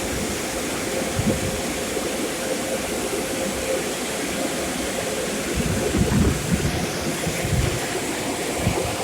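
Drive-thru car wash running: a steady rush of water spray with a faint machine hum, and a few low thumps about six to seven seconds in.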